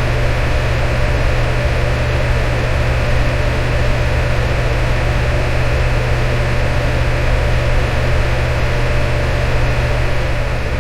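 Electric fan running steadily: an even rush of air over a strong low hum, with a faint steady tone in the middle.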